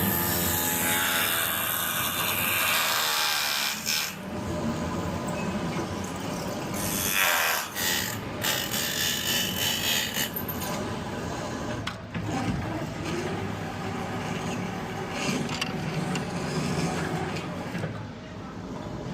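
Power tool running under load during glue removal, loud and noisy, with its sound surging and easing and briefly breaking off a few times.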